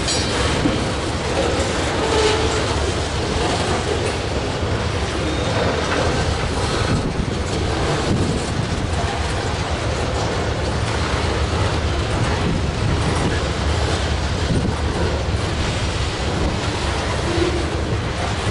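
Freight train of covered hopper cars rolling steadily past, its steel wheels clattering over the rails.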